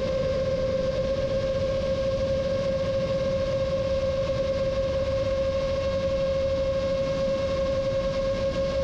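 Motors and propellers of a 7-inch FPV quadcopter in cruising flight, a steady whine at nearly constant pitch over a rough rumble of wind on the onboard microphone.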